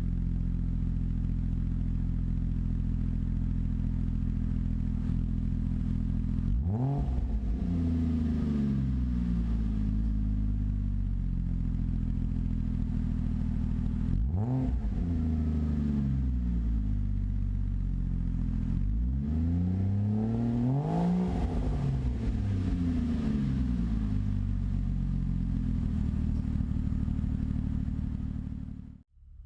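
Ford Fusion Sport's 2.7-litre twin-turbo V6 idling through a Magnaflow axle-back exhaust with resonators removed. It is revved briefly about four times, with two of the blips close together, and each time falls back to a steady idle. The sound cuts off just before the end.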